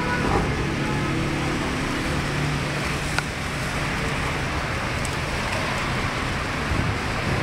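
Car engine running at idle under a steady rush of noise, with a single sharp click about three seconds in.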